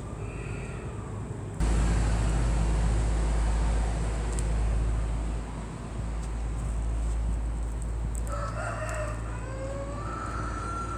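A rooster crowing near the end, over a steady low rumble that cuts in abruptly about one and a half seconds in.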